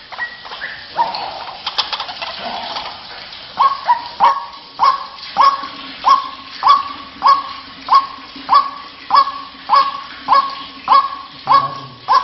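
White-breasted waterhen calling: a few irregular croaking notes, then from about three seconds in a steady run of loud, sharp 'kwak' calls, nearly two a second.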